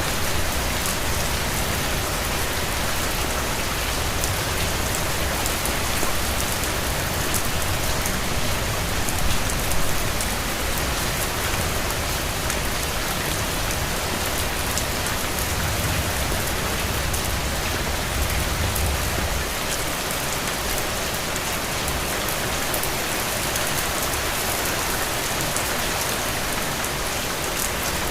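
Steady rain falling, an even hiss of drops on a surface. A low rumble swells up about nine seconds in and again for a few seconds past the middle.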